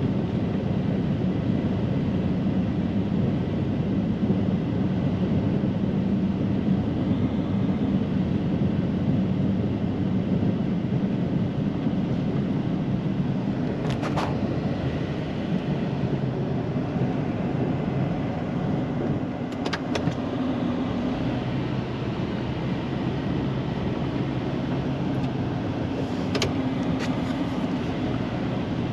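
Snow plow truck's engine running steadily, heard from the cab, its pitch dropping about two-thirds of the way through. A few sharp knocks cut through it: once about halfway, twice a little later, and a short cluster near the end.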